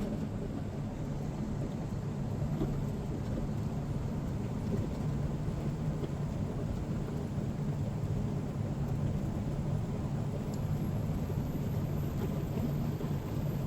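Semi-truck tanker's diesel engine and road noise while driving, a steady low drone with an even hum that holds at a constant level.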